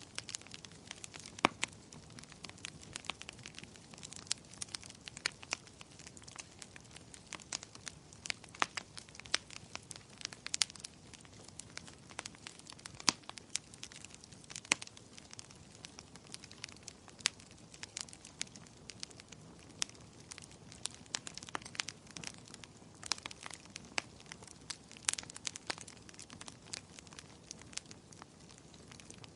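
Wood fire burning in a fireplace: irregular sharp crackles and pops, several a second, over a soft steady hiss of flame.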